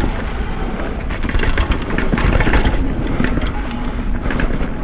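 Riding noise from a downhill mountain bike on a rough trail: steady wind rumble on the mic, with tyre roar and a constant clatter of chain and frame rattles over bumps.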